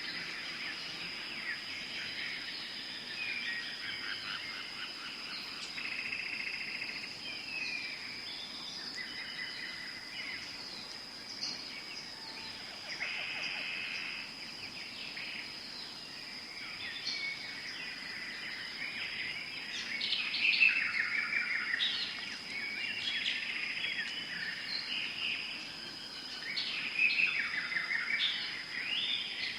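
Tropical forest ambience: many birds calling and chirping over a steady, high-pitched insect drone. The birdsong grows louder in bursts around two-thirds of the way in and again near the end.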